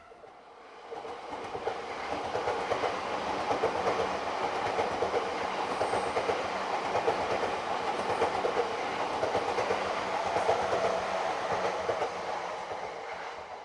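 A yellow-striped JR Chuo-Sobu Line local electric commuter train passing on the tracks below, its wheels clattering over the rails. It swells in about a second in, holds steady, and fades away near the end.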